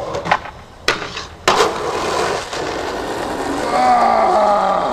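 Skateboard: three sharp clacks of the board in the first second and a half, the last the loudest, then the wheels rolling steadily on pavement.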